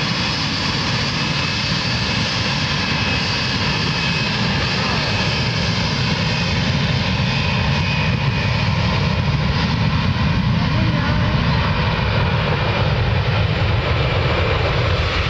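Jet aircraft engines at take-off power: a loud, steady rush with a faint high whine over it.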